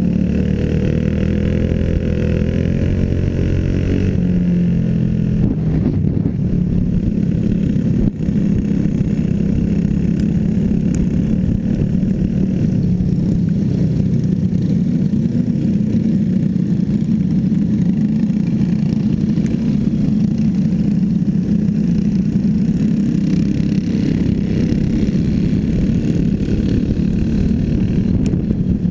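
Small racing engines running hard through a race heat, a continuous loud engine drone. In the first few seconds one engine's pitch rises slightly before settling into the steady roar.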